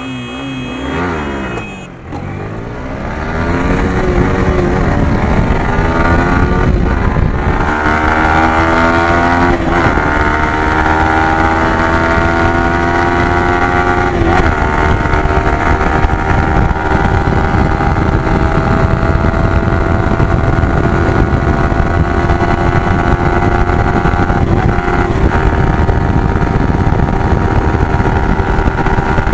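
Yamaha R15 V3's 155 cc single-cylinder engine accelerating hard from a launch, its pitch climbing through several quick gear changes over the first fifteen seconds or so, then holding steady at high revs at full speed, with wind rush.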